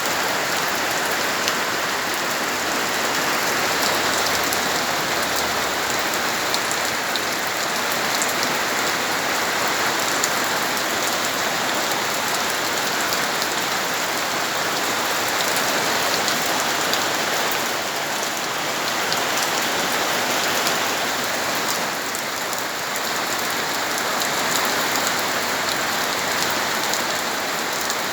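Heavy rain falling hard and steadily, a dense even hiss with scattered drop ticks.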